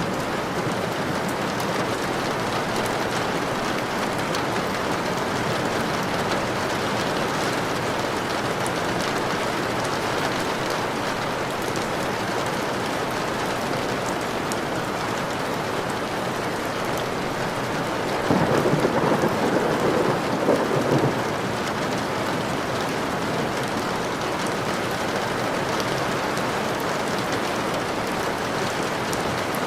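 Steady heavy rain falling. About two-thirds of the way through a clap of thunder breaks in suddenly and rumbles for around three seconds, louder than the rain.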